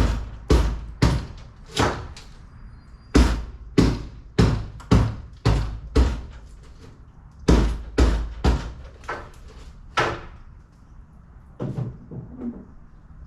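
Hammer blows struck about two a second in three runs of five or six, each a sharp bang with a short ring, with brief pauses between runs and a last weaker knock near the end.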